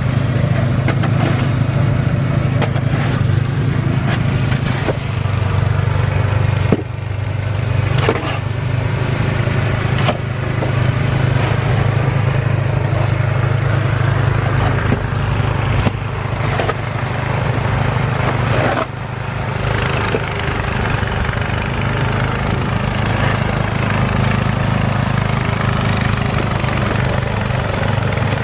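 Gasoline snowblower engine running steadily under load in heavy, deep snow, with a couple of brief dips in level.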